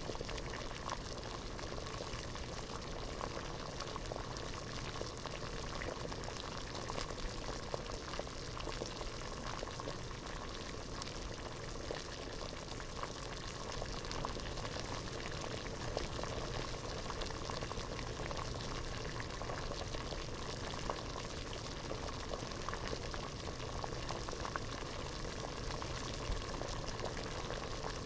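Water at a rolling boil in a pot, bubbling steadily with a dense crackle of small pops.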